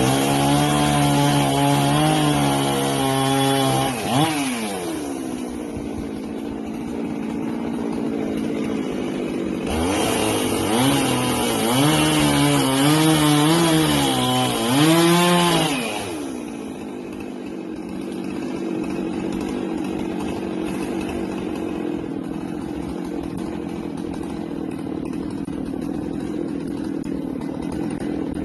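Husqvarna 390XP two-stroke chainsaw run at full throttle twice, for about four seconds and then about six, its pitch wavering as it cuts into wood. It drops back to a lower steady idle between the two cuts and from about sixteen seconds on.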